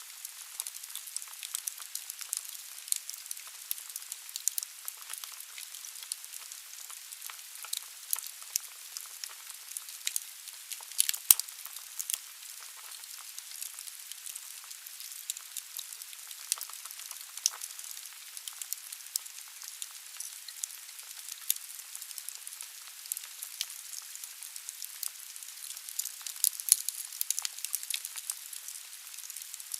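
Firewood burning in a fireplace: a steady hiss of the fire with frequent small crackles and pops, and one sharper pop a little past a third of the way in.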